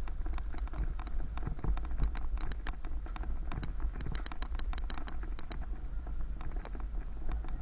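Bicycle rattling and clicking while ridden, with many sharp irregular clicks, at times several a second, over a steady low rumble of wind on the microphone.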